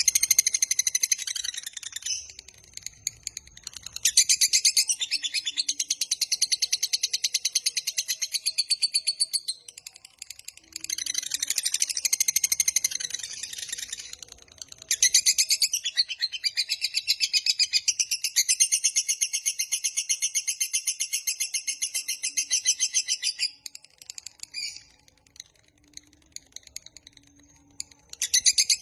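Lovebird singing its long chattering trill (ngekek panjang): long runs of fast repeated high notes lasting several seconds each, separated by short breaks, with a longer pause about 24 seconds in before it starts again near the end.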